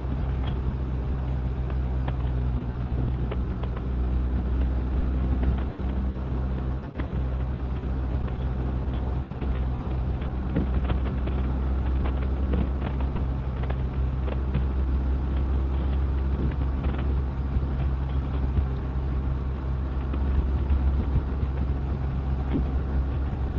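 Motorcycle engine and road noise while riding at a steady speed: a constant low drone, with scattered faint crackles on the recording that the rider thinks the nearby power lines partly cause.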